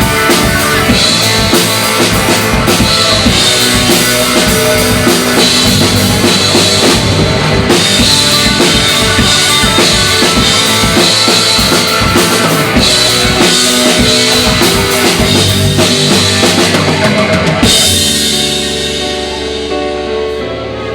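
Rock band playing loud with the drums to the fore, in a passage with no singing. About 18 seconds in the drumming stops, and the last chord rings on and fades.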